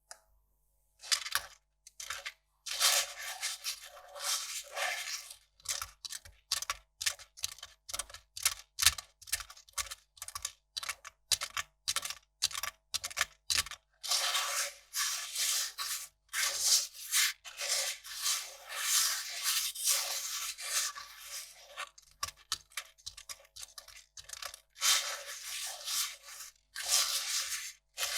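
Kraft paper being handled close up: a quick series of short, crisp crackles and rustles, with a few longer stretches of a second or two.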